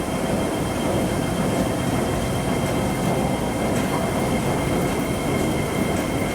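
MTR West Rail Line IKK-train running: a steady rumble of wheels and running gear with a thin, steady high whine over it.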